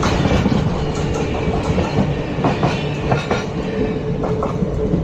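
ICF passenger coaches running on the track: a steady rumble with irregular clicks of the wheels over the rails, and a faint steady hum.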